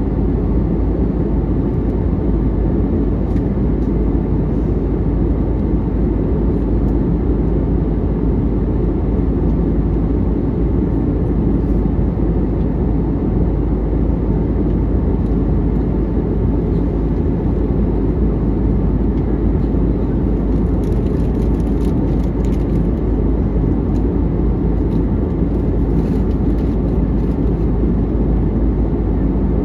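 Steady low rumble of engine and air noise inside a jet airliner's cabin, with a few faint light ticks in the second half.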